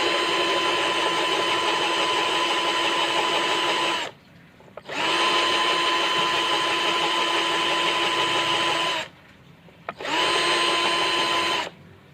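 Electric drill motor run in three bursts of a few seconds each, with a steady high whine. Each burst spins up quickly and each stops suddenly.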